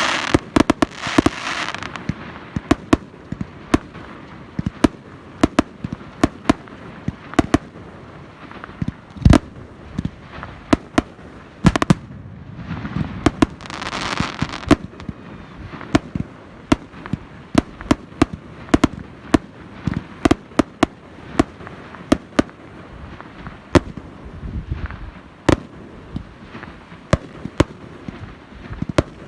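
Fireworks display: aerial shells bursting in a rapid, irregular string of sharp bangs, with swells of hissing crackle near the start and about halfway through.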